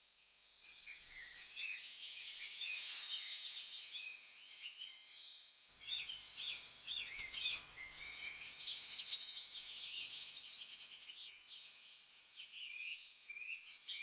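Many birds chirping and calling at once, a dense chorus of short, high, overlapping notes, with a brief lull about five seconds in.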